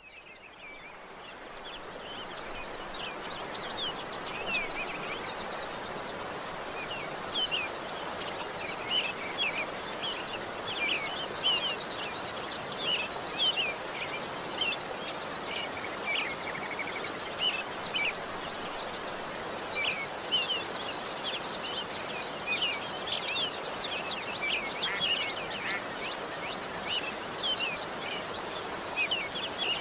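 Nature ambience of many small birds chirping and twittering in quick, overlapping calls, over a steady high insect drone and a continuous hiss of background noise. It fades in over the first few seconds.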